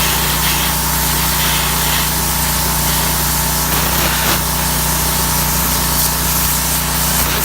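Pit bike engine idling steadily at an even pitch, with a rough rattly noise over it.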